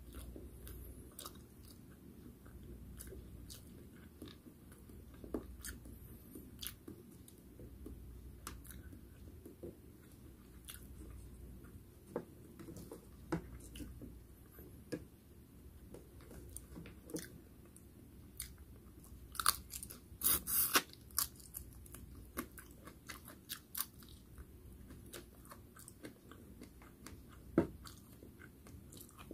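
Close-miked chewing and mouth sounds of a person eating fried food with their hands: soft wet smacks and scattered clicks, with a louder run of crunching crackles about two-thirds of the way through and one sharp snap near the end.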